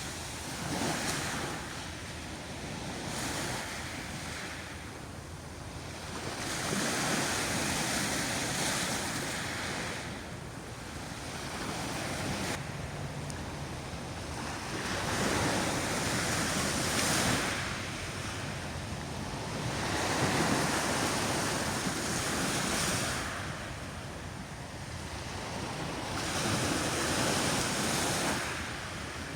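Sea waves washing onto the shore, the surf swelling and falling back every several seconds.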